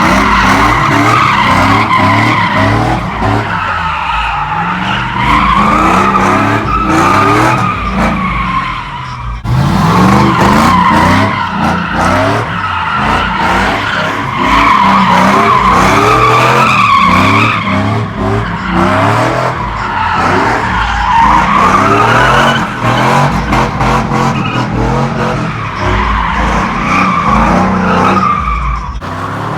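Truck tires squealing under sustained wheelspin over a running engine. The squeal wavers up and down in pitch, breaks off briefly about a third of the way through, then resumes.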